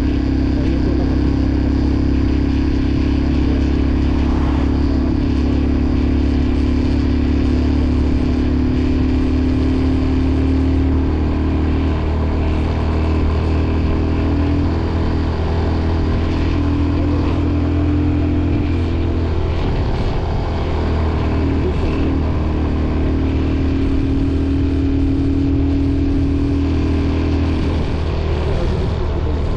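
Motorcycle engine running steadily while riding, with a constant low drone and small shifts in pitch now and then.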